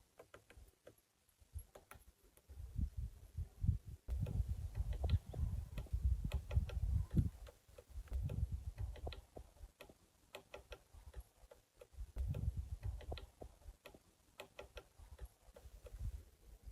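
Woodpecker pecking at a tree trunk: sharp single taps at an irregular pace of a few per second, not a fast drum roll. A low rumble comes and goes under the taps.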